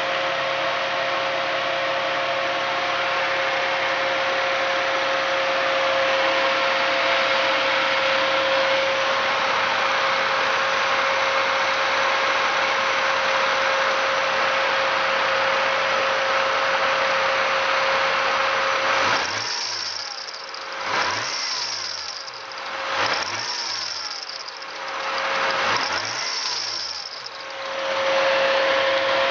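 Toyota 2JZ-GTE VVTi twin-turbo straight-six running with a loud metallic clashing noise and a steady whine, then revved four times in quick succession about two-thirds of the way through. The clashing, which sounds like a failing water pump or crank pulley, comes from a bad drive belt.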